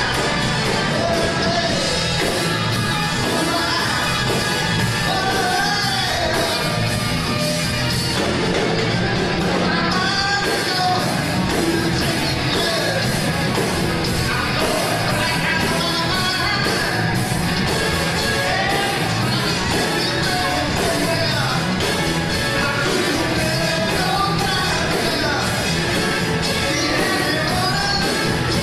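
Live band playing a song with a lead vocalist singing over it, drums keeping a steady beat.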